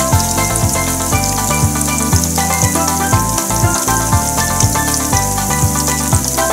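Chicken karaage deep-frying in hot oil: a steady crackling sizzle. Background music with held notes and a bass line plays over it.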